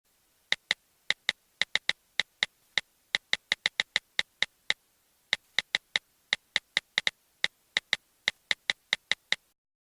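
A quick, uneven run of sharp clicks, about four a second and often in pairs, with a short pause partway through; it stops suddenly near the end.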